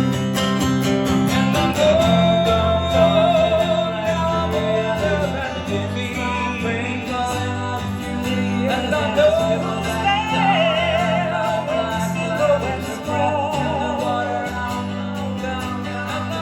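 Live acoustic guitars strumming the song's chords. About two seconds in, wordless sung vocal lines with a wavering vibrato come in over them and rise and fall.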